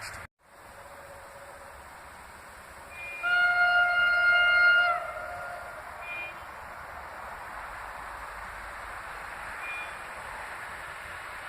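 A train horn sounding one loud blast of about a second and a half, its pitch sagging slightly as it cuts off. A short faint toot comes just before it and again twice afterwards, over a steady rushing noise.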